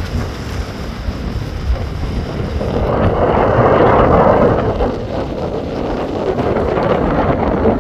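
Wind buffeting the microphone over a rush of sea water, the water noise swelling louder about three seconds in and easing off again about two seconds later.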